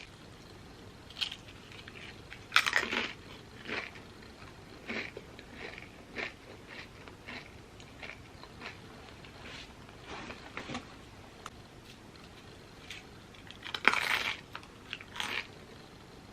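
Crisp chips bitten and chewed close to the microphone: two loud crunching bites, about two and a half seconds in and near the end, with quieter chewing crunches between them.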